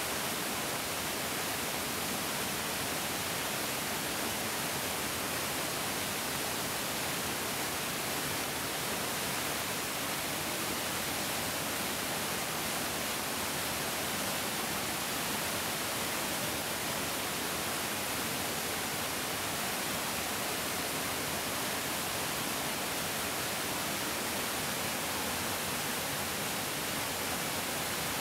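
Mountain stream flowing steadily: an even, unbroken hiss of rushing water.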